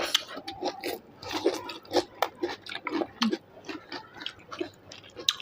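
A person chewing food close to the microphone: irregular wet smacks and mouth clicks, a few a second.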